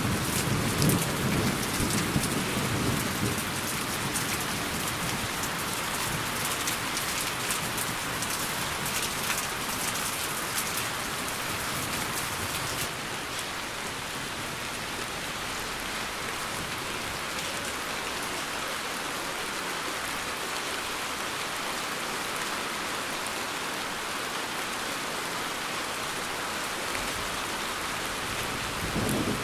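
Steady rain falling on foliage, with a low rumble in the first few seconds. About 13 seconds in, the crisp close patter of the drops softens.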